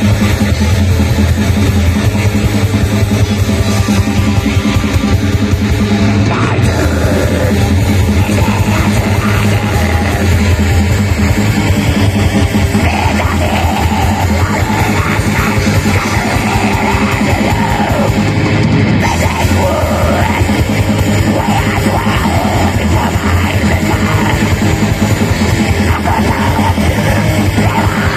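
Metal band playing live: loud distorted guitars over dense, rapid drumming, without a break.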